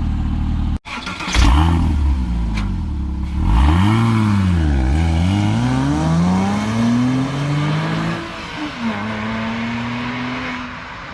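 Porsche Cayman S flat-six engine and exhaust revving. The revs rise and fall twice, then climb steadily for a few seconds, drop sharply about eight seconds in, and hold a lower, steadier note as the sound fades near the end.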